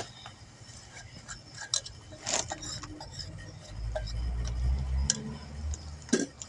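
Scattered light metallic clicks and clinks of tire-changing tools and wheel parts being handled, with a low rumble coming in about four seconds in and fading before the end.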